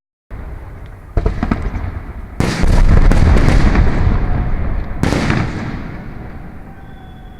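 Festival fireworks going off: a sharp bang about a second in, then a much louder burst with a long rumbling boom, and another burst near five seconds before the sound slowly dies away.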